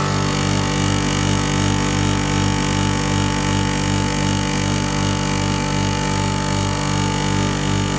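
7.5 hp double-chamber rice grinder running: a steady machine hum with a regular low pulse about three times a second.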